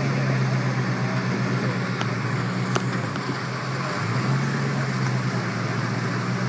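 Vintage hot rod's engine running at idle through a loud exhaust, a steady low note that eases for about a second midway and then comes back up.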